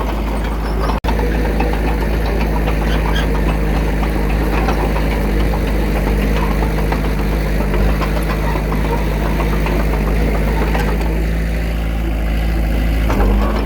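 Diesel engine of a small bulldozer or dump truck running steadily with a knocking clatter, cutting out for an instant about a second in.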